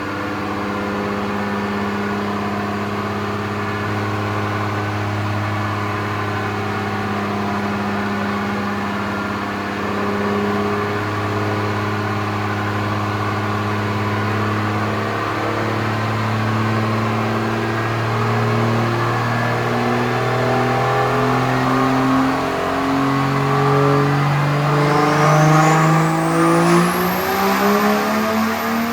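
Turbo diesel pickup engine making a long pull on a chassis dyno, its note climbing steadily in pitch. Near the end a turbo whistle rises sharply, and then the engine lets off.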